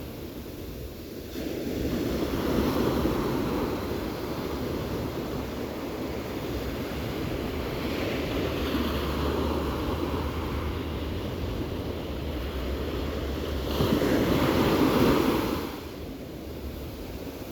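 Ocean surf breaking and washing in, the rush of water swelling and falling away in surges; the biggest surge is near the end and dies down sharply. A faint low steady hum runs underneath through the middle.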